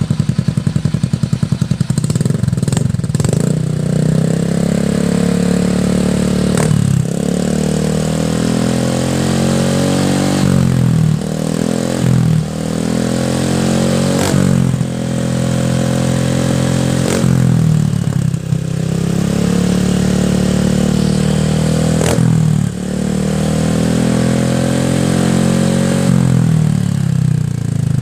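Motorcycle fitted with a CLD Izy Racing aftermarket exhaust, idling and revved in repeated throttle blips every few seconds. The exhaust note rises in pitch and falls back to idle each time.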